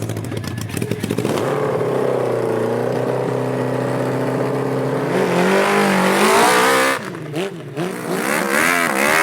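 Motocross dirt bike engines running at a steady pitch, then revving up about five seconds in. After a sudden break near seven seconds, the engine note swings rapidly up and down as the throttle is worked.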